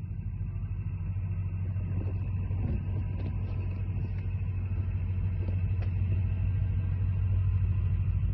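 A vehicle engine running with a steady low rumble that grows slowly louder, with a few faint ticks partway through.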